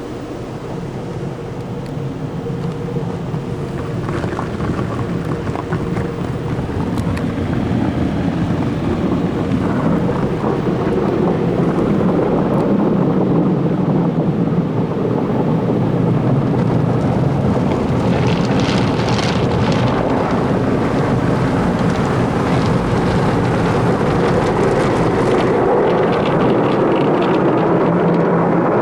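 Automatic tunnel car wash heard from inside the car: water spray and wash equipment beating on the car's body as it rolls through on the conveyor. It builds over the first ten seconds into a steady loud rush, with extra hissing bursts of spray in the second half.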